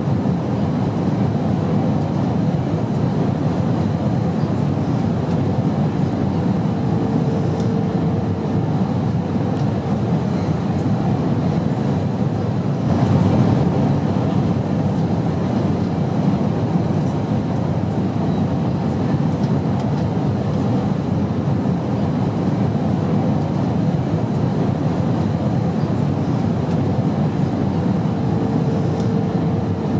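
Airplane in flight: a steady, even low rumble of engine and rushing air, with a faint hum appearing briefly twice.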